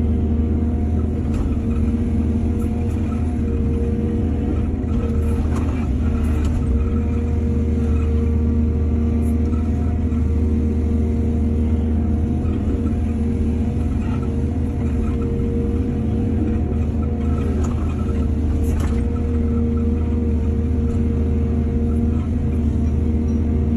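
Heavy diesel engine of an excavator running steadily, with a few faint knocks now and then.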